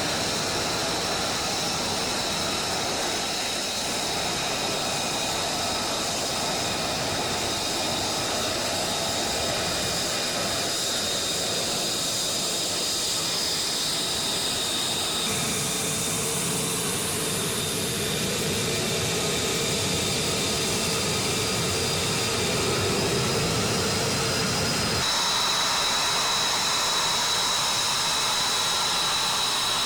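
Military fighter jet engines running, a steady rushing noise with a high turbine whine. The sound changes abruptly about halfway through and again near the end, as the shots cut.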